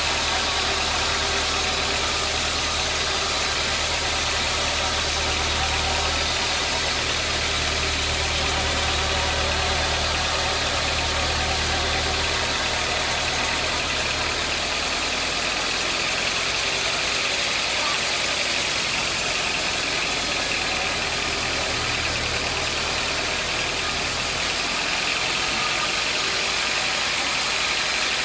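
Sawmill machinery running steadily: a continuous engine-like drone with a hiss over it. The low hum drops off about halfway through.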